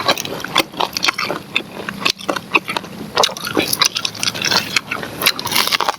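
Biting and chewing grilled corn on the cob, heard as a quick, irregular run of crunchy clicks and mouth smacks.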